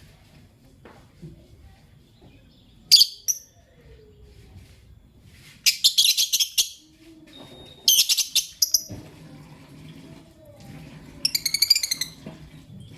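Lovebird chirping in four short bursts of rapid, shrill chirps, a few seconds apart.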